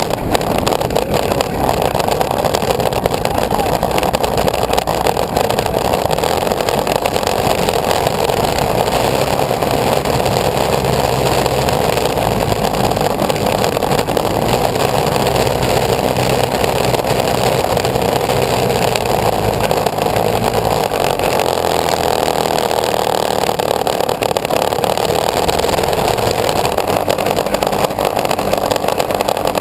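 A loud engine running steadily at a constant speed, without a break.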